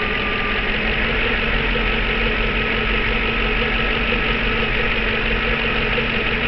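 An engine running steadily at idle, a constant hum that does not change.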